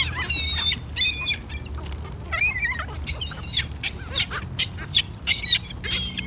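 A flock of gulls calling while they eat: a quick run of short, high, harsh cries, about a dozen, several overlapping.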